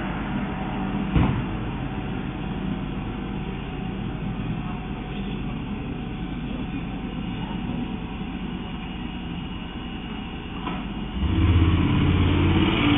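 Steady vehicle engine and street noise with a sharp knock about a second in; near the end a vehicle engine suddenly gets much louder, revving.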